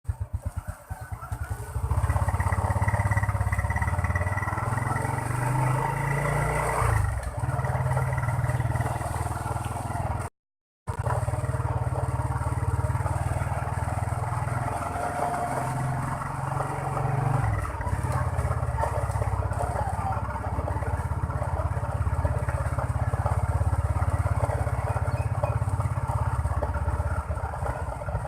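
Motorcycle engine running steadily while being ridden, with a brief cut to silence about ten seconds in.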